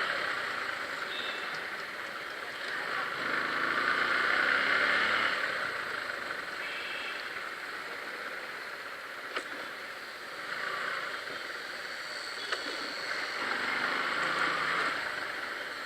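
Road and traffic noise heard from a moving motorcycle, swelling and fading several times as vehicles pass, loudest about three to five seconds in and again near the end.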